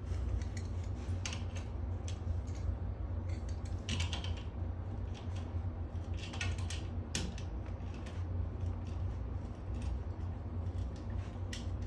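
Nuts being tightened down with a wrench on the bolts of a cast iron toilet flange repair: scattered small metallic clicks and ticks, with the metal squeezing under the tension.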